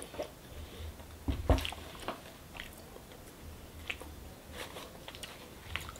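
A child chewing sticky sweets with an open, wet mouth: quiet smacking with scattered short clicks, and one louder smack about a second and a half in.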